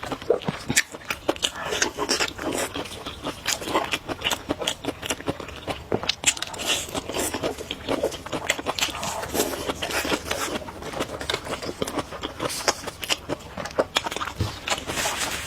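A person eating close to the microphone: chewing and mouth smacks, many sharp irregular clicks.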